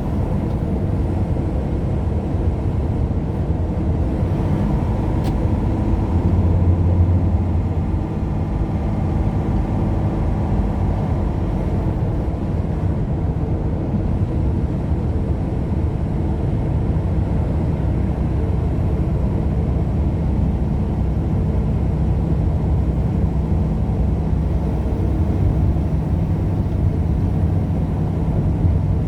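Steady low drone of a car driving along a road, engine and tyre noise, with a brief swell in the rumble about seven seconds in.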